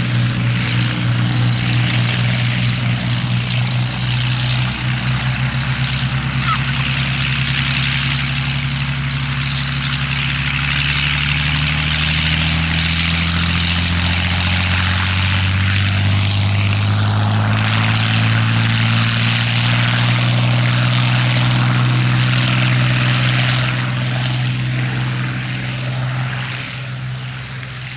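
Piston-engined Second World War fighter aircraft flying over, a loud engine and propeller drone whose pitch slides upward partway through, fading near the end.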